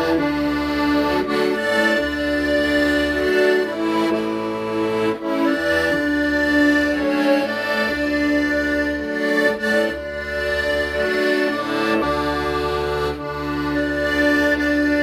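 Accordion playing a melody of long held notes over bass notes that change every second or two.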